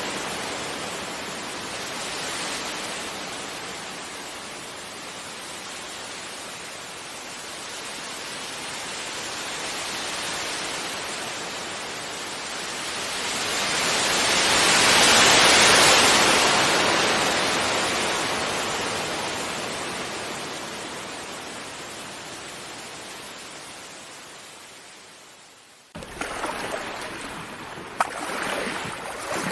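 Sea waves breaking and washing on a beach. One wave swells slowly to its loudest about halfway through and then fades away. Near the end the sound cuts off suddenly into a choppier stretch of surf.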